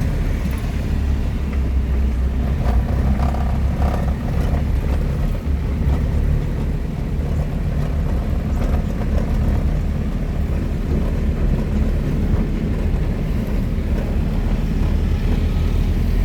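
Car driving along at steady speed: a continuous low rumble of engine and road noise.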